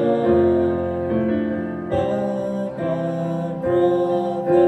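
Live music: keyboard chords ringing out between the sung lines of a song, the chord changing a few times.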